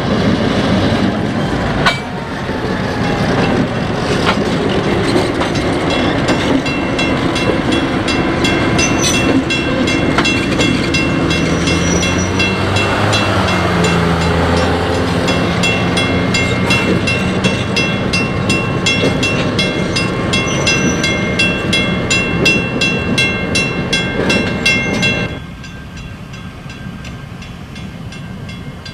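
A Southern Railroad of New Jersey train rolling past, its wheels clicking over the rail joints in a steady rhythm, with thin high-pitched squealing tones over the rumble. The sound drops sharply in level near the end.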